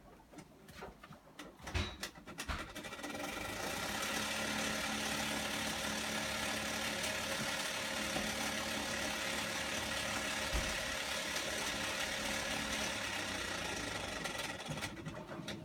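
Abnormal noise from a BD-V2100 unit: a few clicks, then from about three seconds in a steady mechanical whirring with a humming tone that runs on and eases off near the end.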